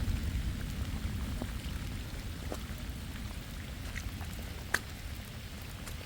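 Rain falling, with scattered single drops striking close by; one sharp drop lands about three-quarters of the way through. A low rumble underneath fades away over the first few seconds.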